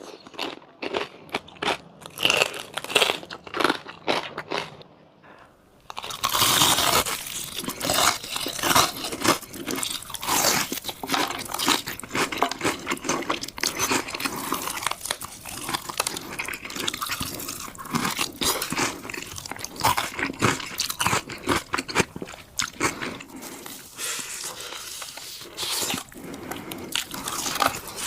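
Close-miked crunching and chewing of crisp food, ASMR-style: separate crunchy bites for the first few seconds, a brief lull about five seconds in, then dense, continuous crunching.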